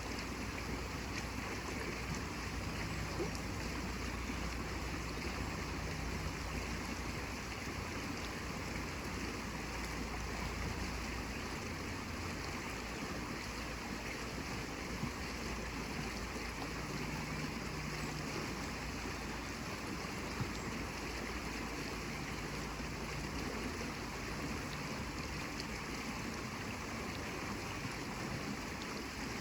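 Steady flowing water, an even rushing hiss that does not change.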